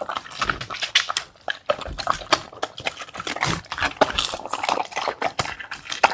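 A dog eating a wet meal: quick, irregular chewing and wet smacking sounds.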